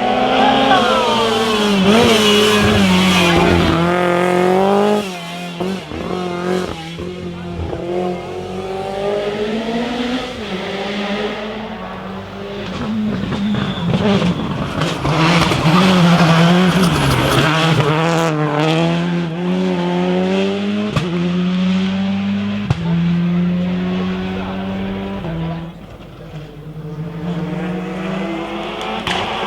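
Rally car engines revving hard through the gears, the pitch climbing and then dropping sharply at each shift, with tyres squealing as the cars are driven hard on the stage.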